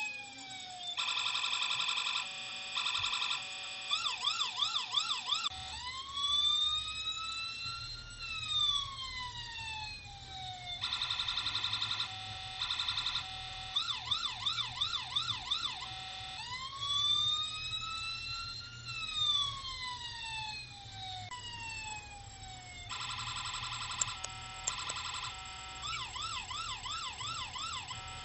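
Electronic police siren from the model police car's siren module, cycling through its tones: a slow wail rising and falling, then a stuttering pulsed tone, then a fast yelp warble, the cycle repeating about every 11 seconds. A faint low hum joins about five seconds in.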